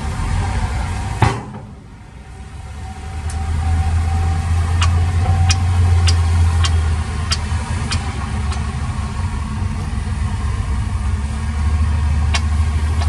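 Heavy diesel engine of construction machinery running with a steady low hum. The sound drops away after a sharp click about a second in, then builds back up, with a row of sharp clicks or knocks, roughly two a second, partway through.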